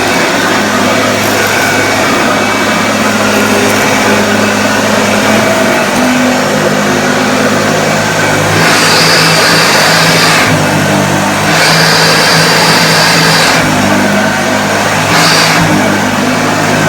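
1976 Hoover Starlight upright vacuum cleaner running over carpet, its motor hum wavering slightly in pitch as it is pushed back and forth, with three stretches of louder hiss as it picks up scattered porridge oats and pet food.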